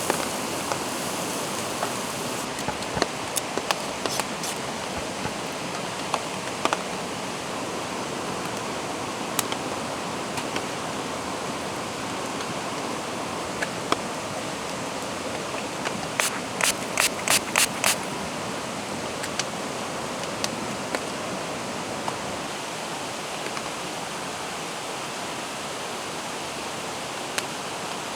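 Steady rush of a mountain stream under falling rain, with scattered sharp clicks and a quick run of about six clicks just past the middle.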